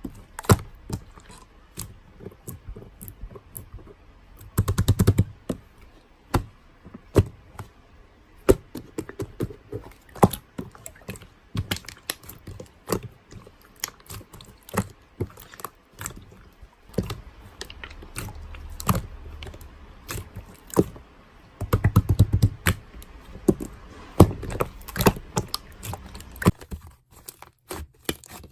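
Close-up handling noise: irregular clicks and taps, with denser clusters of crinkling and scraping twice.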